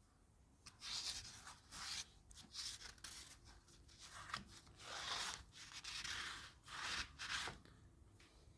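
A rag wiping out a cylinder of a Chrysler 440 marine engine, mopping up coolant that leaked in: a series of short rubbing strokes, about one a second.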